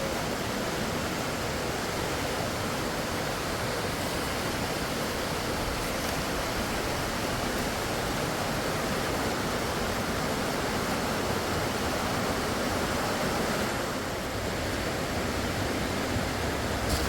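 Steady rush of a fast-flowing river, an even wash of water noise with a slight dip about fourteen seconds in.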